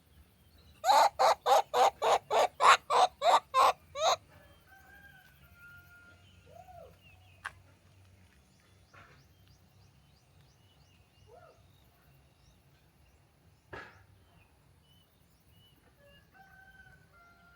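A hen cackling: a quick, even run of about a dozen clucks, some four a second, ending about four seconds in, followed by faint short chirps.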